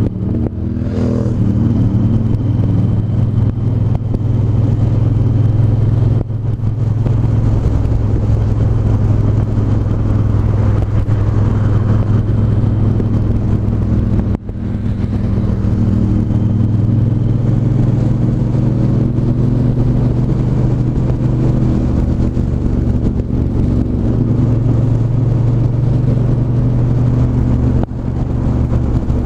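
Triumph 1200 cc parallel-twin motorcycle engine running under way, a steady low engine note that dips briefly about six seconds in, midway and near the end.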